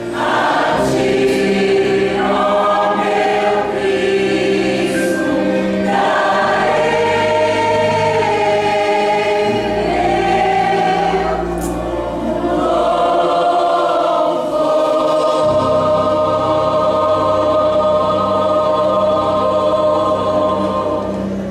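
A church choir singing a sacred piece in sustained chords over accompaniment with held bass notes, with the last chord held for about the final six seconds.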